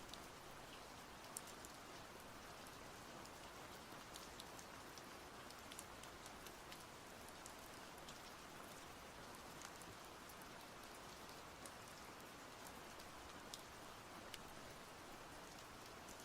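Soft, steady rain with scattered drops ticking on a surface.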